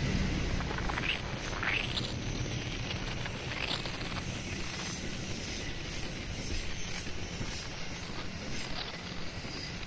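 Passenger coaches of a diesel-hauled train rolling past on the rails, a steady low rumble of wheels on track, with a few short high squeaks.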